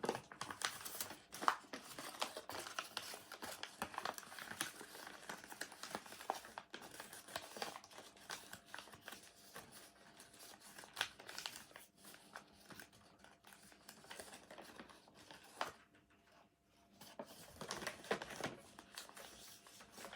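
A sheet of paper being handled and folded, crinkling with short irregular crackles as it is creased, with a quieter pause near the end.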